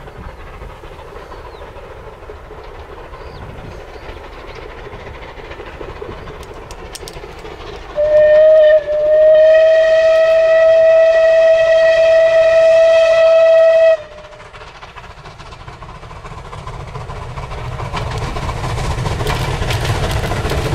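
Steam locomotive whistle: a short toot, then a long steady blast of about five seconds, over a continuous train rumble that swells again near the end.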